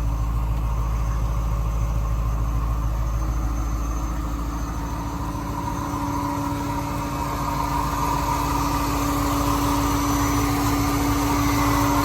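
1991 Corvette ZR1's LT5 32-valve V8 idling smoothly just after a cold start, with the emissions air injection pump running. A steady whine grows stronger from a few seconds in.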